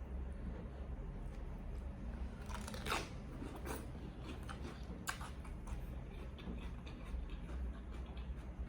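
Faint eating sounds: chewing with a few small clicks, one slightly louder about three seconds in, over a steady low hum.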